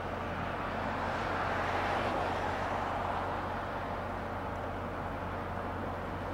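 Railway noise from a diesel locomotive and nearby train movement, recorded on Hi-8 camcorder audio. A steady low hum runs under a broad rushing noise that swells about a second in and eases off after about three seconds.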